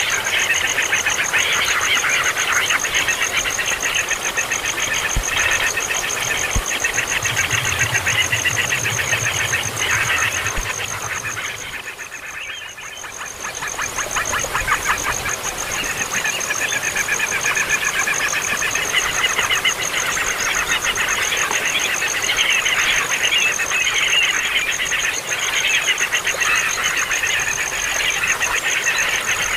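A baby bird making loud, incessant rapid chattering begging calls, with a brief lull about twelve seconds in. A thin steady high-pitched tone runs underneath.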